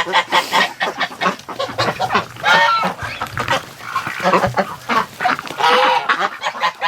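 Flock of domestic geese and ducks calling together: many overlapping honks and quacks, one call on top of another.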